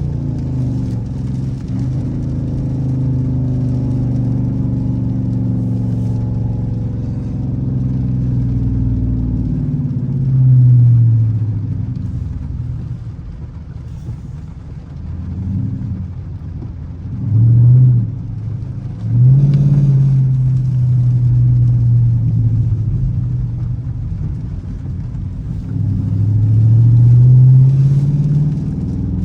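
Dodge Charger R/T's V8 engine while driving, a steady low drone that rises in pitch and gets louder each time the car accelerates, several times over, with the longest climb near the end.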